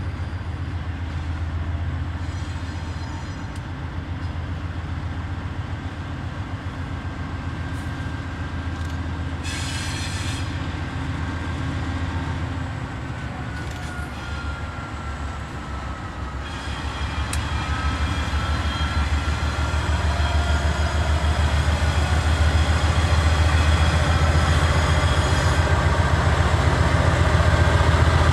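Diesel freight train locomotives running with a heavy low drone, growing louder over the second half, with a thin high whine that slides down in pitch and then rises again.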